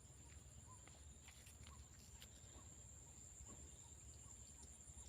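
Near silence: faint outdoor ambience with a steady high-pitched whine and soft scattered chirps and ticks.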